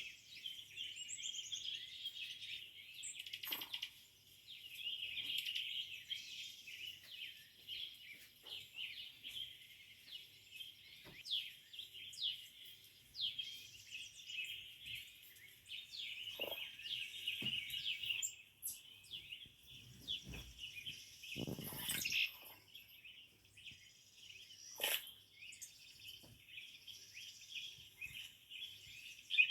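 Many small birds chirping and twittering continuously, with a few brief knocks now and then.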